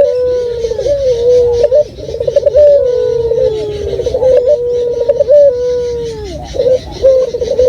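Male puter (Barbary dove) cooing over and over: each coo starts with a quick stuttering roll and runs into a long held note, repeated every second or two.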